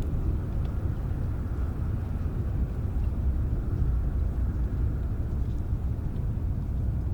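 Steady rain, heard as a dense, deep rushing noise with a few faint drop ticks above it.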